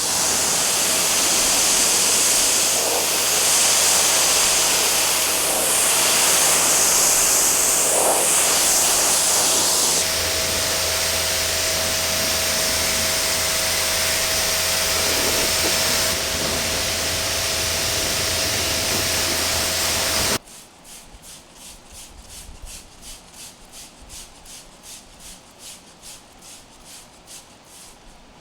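Pressure washer spraying water onto a car, a steady loud hiss over the humming of its motor and pump, cutting off suddenly about two-thirds of the way through. After it, a much quieter rapid rhythmic rubbing.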